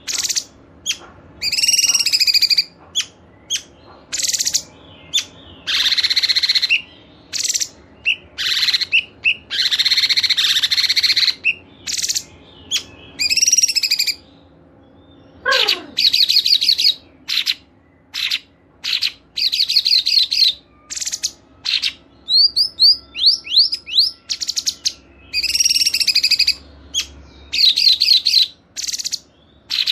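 Songbirds singing in bursts of about a second of dense, harsh chattering song, broken by short pauses; from about two thirds in, fast series of sharp rising chirps alternate with the chatter.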